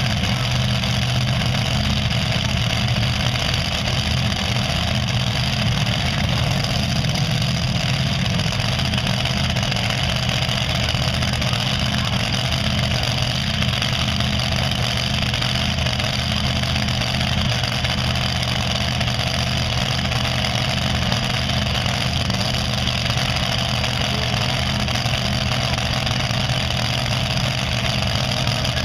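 Pulling tractor's engine running steadily at an even speed, a low droning hum with no revving.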